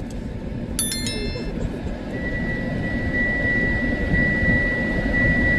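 Strong wind rumbling and buffeting the microphone, with a short burst of high electronic tones about a second in and then a single steady high-pitched tone from about two seconds in.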